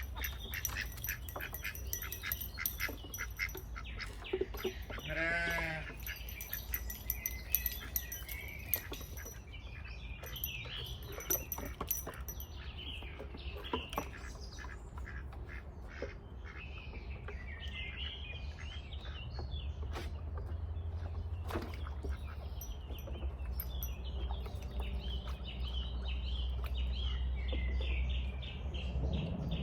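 Farmyard birds chirping and calling, ducks among them, with one drawn-out animal call about five seconds in.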